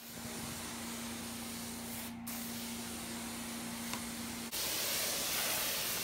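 Carpet pre-spray being sprayed onto carpet as a steady hiss over a low steady hum. The hiss breaks briefly about two seconds in and is louder from about four and a half seconds on, when the hum stops. This is the pre-treatment stage, a citrus-based enzyme cleaner wetting pet stains before cleaning.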